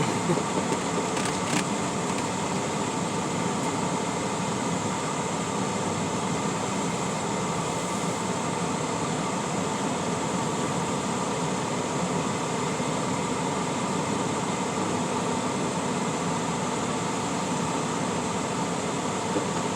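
Steady running noise of a semi truck heard from inside the cab as it creeps along at walking pace, with two faint clicks about a second and a half in.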